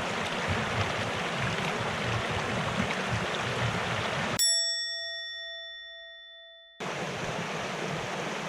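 Steady rush of a mountain stream. About four and a half seconds in, the stream sound cuts out and a single bell-like ding rings and fades for about two seconds, then the stream comes back suddenly.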